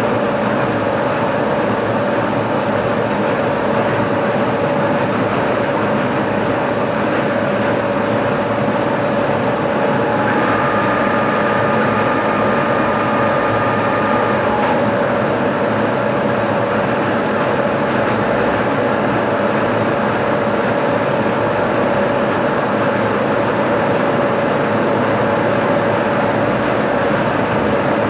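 Metalworking machine tool running steadily, a dense mechanical noise with a constant hum. A higher steady whine joins about ten seconds in and stops about four seconds later.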